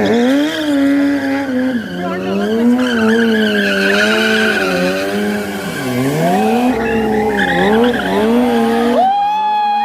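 Sport motorcycle engine revved hard again and again during a stunt run, its pitch climbing and dropping every second or so, then held high for a moment near the end.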